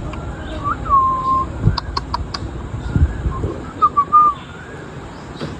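Indian ringneck parrot whistling: a whistled note about a second in and a wavering one about four seconds in, with a few short sharp chirps between them.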